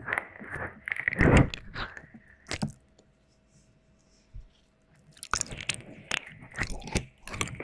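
Close-up wet mouth sounds: licking, with runs of quick wet clicks and smacks. They stop for about two and a half seconds in the middle and then start again.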